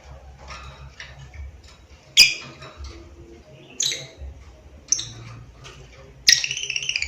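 Lovebird calling: sharp, high chirps about two, four and five seconds in, then a loud, rapid chattering trill near the end.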